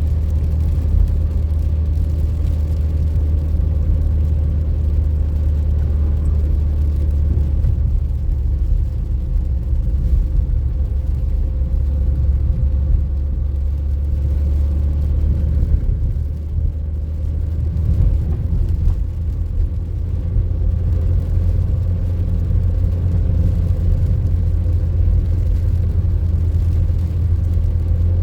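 A motor vehicle running steadily, giving a constant low rumble with a faint steady whine above it.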